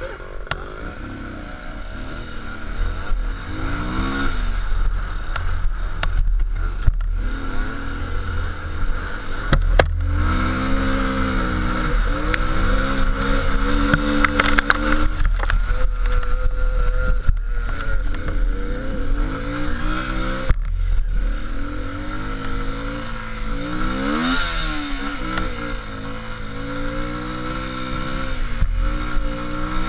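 Car engine running under load on a rough road, its pitch rising and falling repeatedly, over a steady low rumble with occasional knocks.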